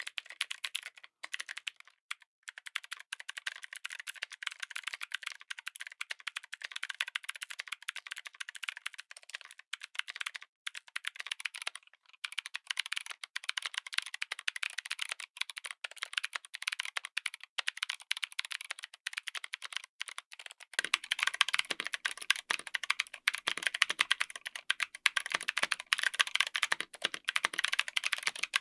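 Fast continuous typing on a mechanical keyboard fitted with clicky switches: dense, crisp key clicks. About 21 seconds in, the typing turns louder and fuller, with a deeper clack under the clicks.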